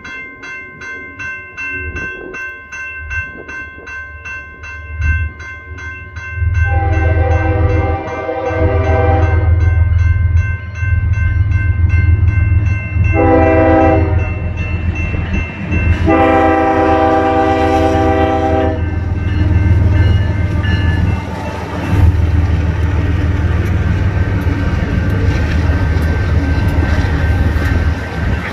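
BNSF diesel freight locomotives approaching and passing with a heavy low engine rumble, while a bell rings rapidly. The air horn sounds a long blast, a short one, then another long one.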